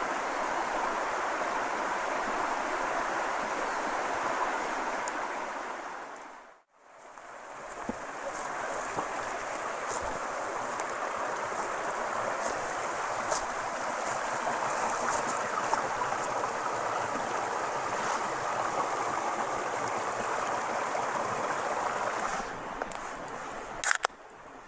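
Mountain stream running steadily, an even rushing of water. It fades out and back in about seven seconds in, small light clicks are scattered over it for much of the rest, and near the end the water sound drops and a few sharp clicks stand out.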